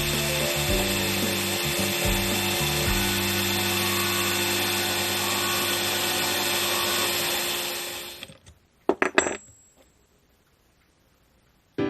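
Electric drill used as a lathe, spinning a plastic rod while it is shaped against a tool, a steady hissing grind over the motor's whine. It winds down about eight seconds in, followed by a few sharp clicks of handling, then quiet.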